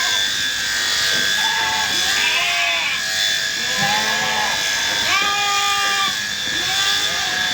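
Several sheep bleating repeatedly, their calls overlapping, over a steady mechanical hum.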